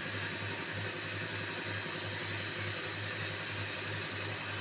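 Diesel common-rail injector test bench running a flow test: a steady mechanical hum with a regular low pulsing.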